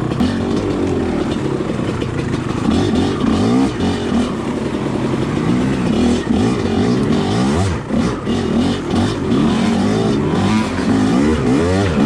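Two-stroke dirt bike engine revving up and down over and over as the throttle is worked on and off through a rough section of trail.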